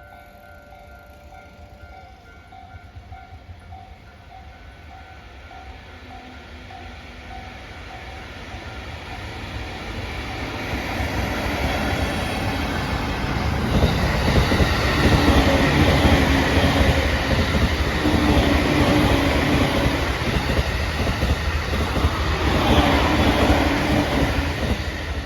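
A level crossing bell dings steadily for the first few seconds. Then a JNR EF65 1000-series electric locomotive running light approaches and passes, its noise building for several seconds and staying loud for about ten seconds before starting to fade near the end.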